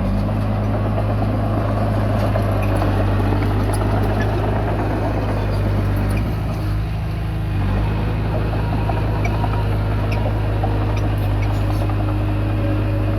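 Komatsu D20P bulldozer's diesel engine running steadily under work, its note dipping and shifting briefly about six seconds in before settling again.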